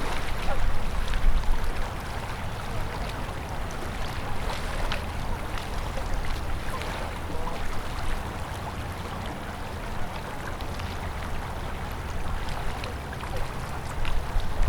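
Open winter river flowing steadily past ice, with many small splashes and gurgles. A low rumble of wind on the microphone swells in the first two seconds and again at the very end.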